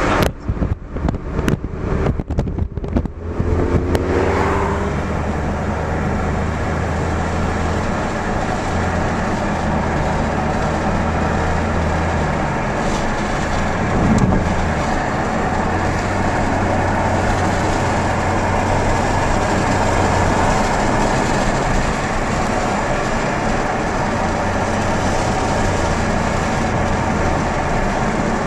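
Car engine and road noise running steadily, with the engine pitch rising briefly about four seconds in.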